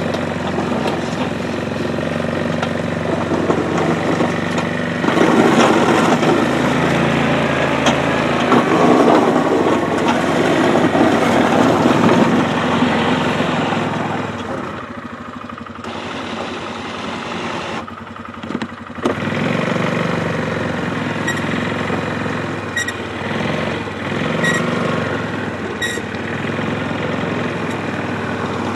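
ATV engine running while plowing slush, louder and rougher for several seconds as the blade pushes, then easing off to a quieter run about halfway through before settling back to a steady hum.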